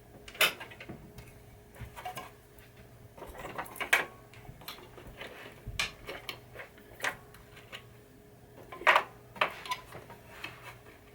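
Screwdriver prying pieces out of a wooden pinball playfield: scattered metallic clicks, knocks and clinks, the loudest about half a second, four and nine seconds in.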